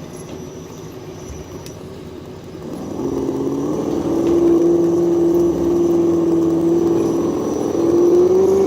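Simulated V8 engine sound from the RC crawler's ESS Dual sound module, through its small speaker. It idles low for the first couple of seconds, revs up about three seconds in and holds a steady higher rev, rising a little more near the end as the throttle opens.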